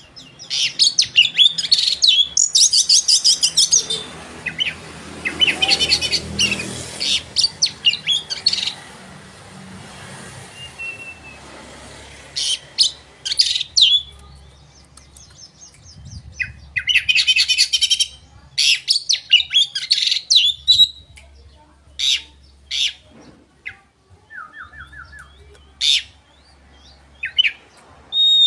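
Oriental magpie-robin (kacer) singing loudly: phrases of rapid, rattling high trills, a second or a few seconds long, broken by short pauses, with sharp single notes near the end. This is the full 'gacor' song played as a lure to provoke rival kacer.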